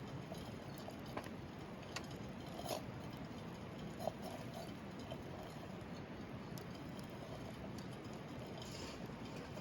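Wood campfire burning: a steady low rush of flames with scattered sharp crackles and pops from the burning wood, the loudest about four seconds in.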